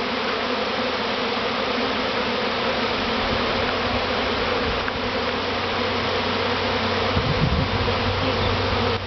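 A large honeybee swarm buzzing all around, a dense, steady hum of thousands of wingbeats heard from right among the flying bees.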